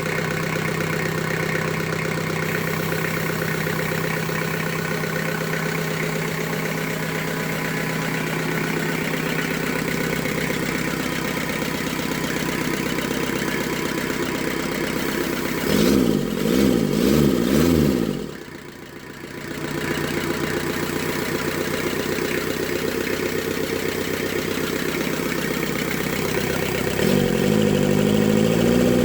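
Kubota V1505 four-cylinder diesel engine idling steadily, revved up and down several times about two-thirds through, briefly dropping off right after, then settling back to a steady idle and revving up again near the end.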